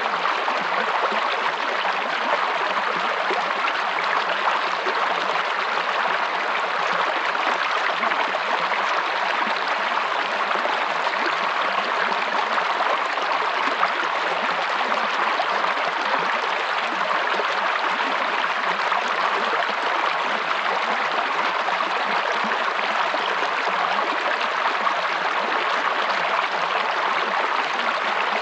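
Running water flowing steadily, a continuous even rush with no breaks or changes.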